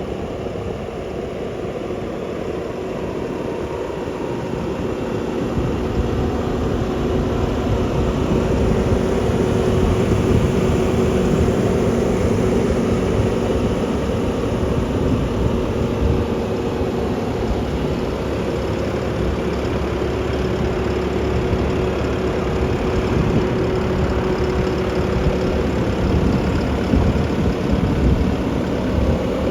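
Bobcat T740 skid steer's Tier 4 diesel engine running steadily with a low rumble and a steady hum, growing louder about five to eight seconds in and then holding.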